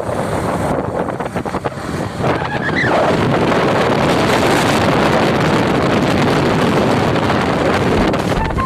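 Motorcycle riding at highway speed: wind rushing over the microphone over engine and road noise, growing louder about three seconds in. A brief rising tone sounds just before the rush swells.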